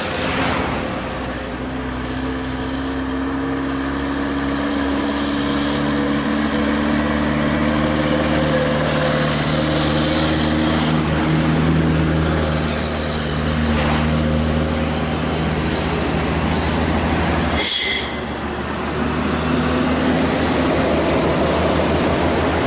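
A heavily loaded truck's diesel engine working hard on a steep climb, its note shifting slowly as the load comes on. About three-quarters of the way through there is a brief sharp sound, after which the engine dips in level and then builds again.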